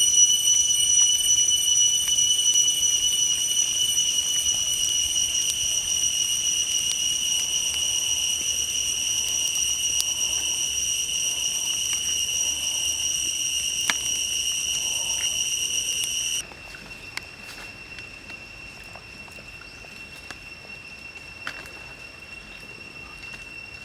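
Insects droning in a steady high-pitched whine with several overtones; about two-thirds of the way through it drops suddenly to a much quieter single high tone. A few faint clicks and taps sound over it.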